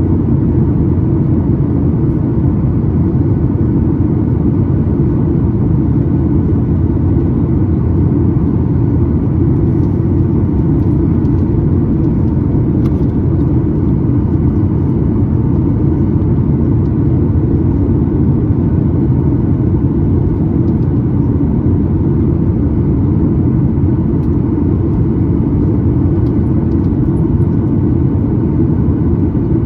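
Steady cabin noise of a Boeing 737-9 MAX in flight: an even, loud low rumble of its CFM LEAP-1B engines and the airflow over the fuselage.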